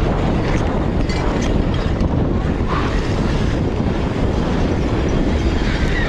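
Steady loud wind noise buffeting the microphone, with scattered light knocks and rattles.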